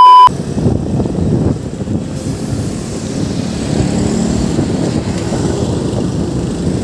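Wind buffeting the microphone of a camera riding along on a moving bicycle, an uneven low rumble. A loud steady beep tone cuts off just at the start.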